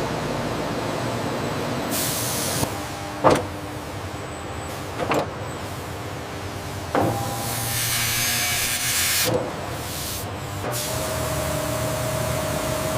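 Factory machinery running with a steady hum, two bursts of air hiss, and four sharp clunks a second or two apart; a steady whine sets in near the end.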